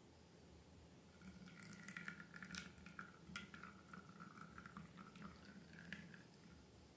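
Faint, wet squishing of slime, with soft sticky clicks and crackles from about a second in until near the end.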